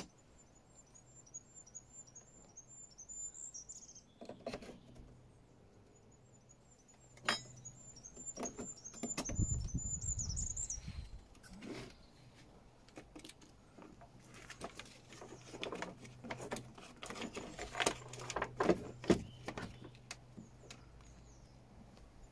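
A small bird sings twice in the first half, each time a run of rapid high chirps. Between and after them come scattered clicks and knocks of parts being handled and fitted to a dashboard panel, the sharpest a few seconds before the end.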